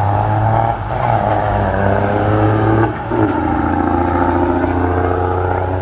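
Drag-racing truck engine accelerating hard. The revs climb, drop back at a gear change about a second in and again about three seconds in, then climb again.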